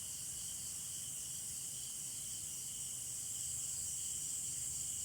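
Steady night chorus of crickets and other insects, a constant high-pitched shrilling with no breaks.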